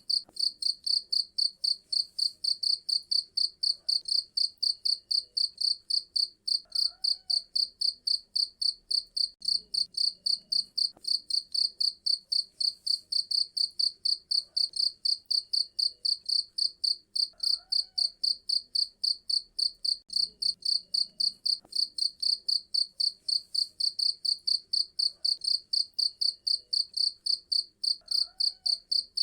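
Cricket chirping steadily in a fast, even rhythm of about three sharp, high-pitched chirps a second.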